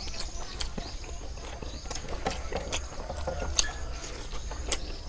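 Close-up eating sounds of sticky caramelized pork skin: irregular wet chewing and sharp lip-smacking clicks, with finger-sucking near the end, over a steady low hum.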